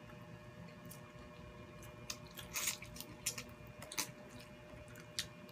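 Close-up eating sounds of baked butter-garlic shrimp being bitten and chewed, with a run of sharp wet clicks and crackles starting about two seconds in.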